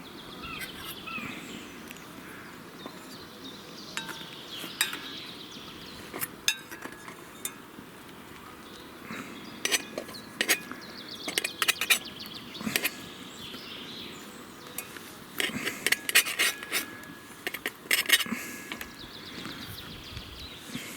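Metal dishes and utensils clinking and knocking in scattered strikes and two busy clusters, the later one near the end, with birds chirping faintly at the start.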